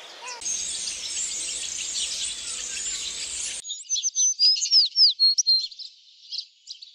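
Birdsong in two clips: first a dense chorus of many birds chirping together, then, after an abrupt change a little past halfway, separate high chirps and arching whistles that fade out near the end.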